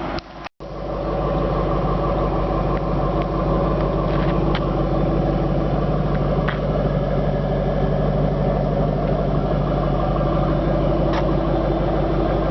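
2006 Ford Mustang GT's 4.6-litre V8 idling steadily, a constant low engine note with no revving, after a brief break in the sound near the start.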